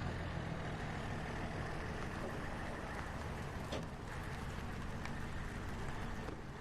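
Steady road-traffic noise from vehicles on the highway, with a low engine hum and a few faint ticks.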